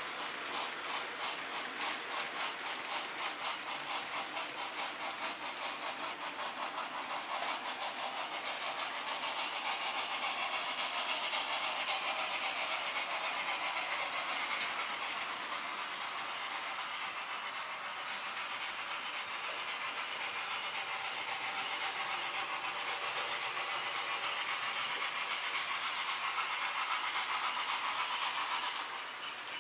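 H0-scale model trains running on the layout: a steady rolling noise of wheels and small motors on the track, with fine rapid clicking throughout. It fades down just before the end.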